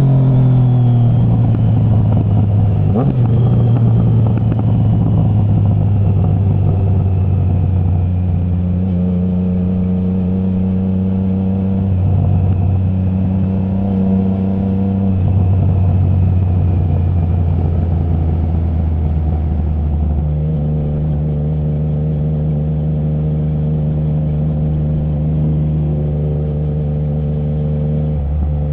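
Triumph Trident 660's inline three-cylinder engine through a Zard stainless full exhaust with the baffle removed, running at fairly steady revs while the bike cruises. The engine note changes about twenty seconds in, with road and wind noise underneath.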